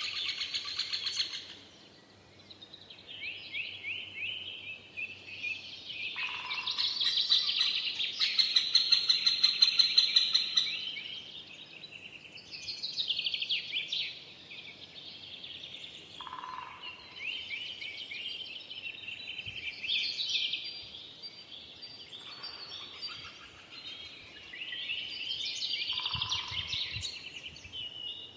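Songbirds singing, a series of long phrases of rapid chirps and trills, the loudest and fastest a run of repeated notes about eight to eleven seconds in.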